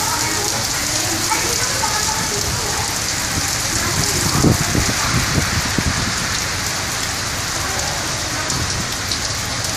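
Heavy rain falling steadily, an even hiss of rain on surfaces, with a few dull low thumps around the middle.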